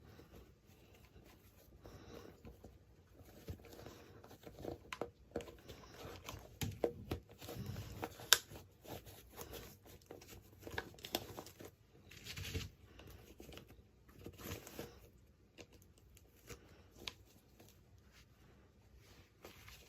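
Hands crinkling and tearing plastic packaging while unboxing miniature toys, with irregular rustles and scattered small clicks and taps. The sharpest click comes about eight seconds in.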